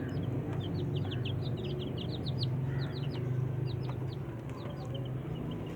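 Young chicks peeping continuously: many short, high-pitched cheeps, several a second, from a small flock. A steady low hum runs underneath.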